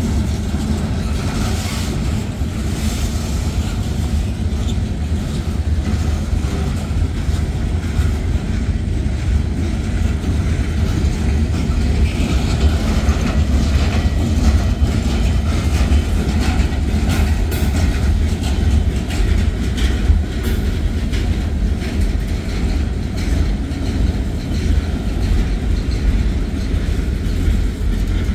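Norfolk Southern manifest freight train's boxcars rolling past: a steady, loud low rumble of steel wheels on the rails, with scattered clicks and clanks from the wheels and cars throughout.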